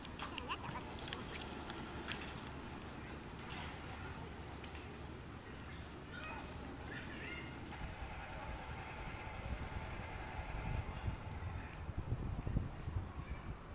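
Birds calling in the trees: short high chirps, the loudest about two and a half seconds in, another about six seconds in and a quicker cluster later. A low rumble comes in near the end.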